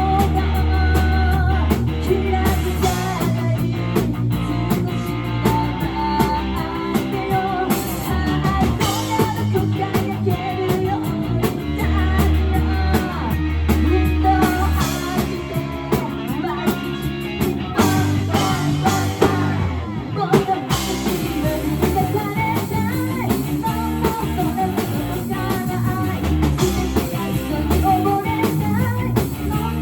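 Rock band playing live: a singer over electric guitar, drum kit and a strong bass line.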